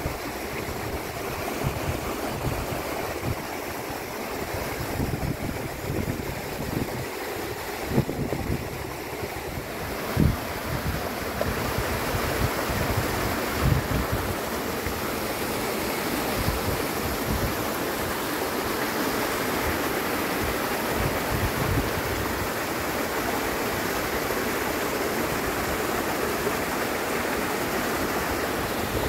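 Wind buffeting the microphone in irregular low gusts over a steady rushing noise, which grows louder and brighter about ten seconds in.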